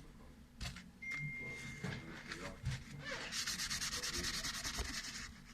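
Quick back-and-forth rubbing or scrubbing strokes, about ten a second, starting a little past three seconds in, after a few light clicks.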